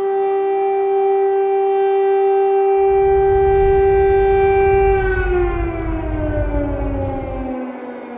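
Civil-defence air-raid siren holding a steady wail, then winding down in pitch from about five seconds in. A low rumble runs underneath through the middle few seconds.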